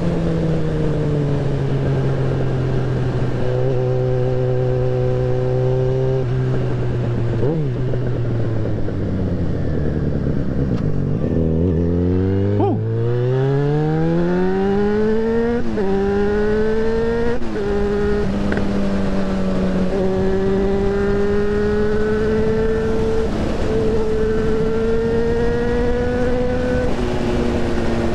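Yamaha XJ6N's 600 cc inline-four motorcycle engine on the road, over a steady rush of wind. The engine note holds, then falls away slowly as the bike slows, and about twelve seconds in it climbs steeply under hard acceleration. Two short dips follow at the gear changes, and it settles into a steady cruise.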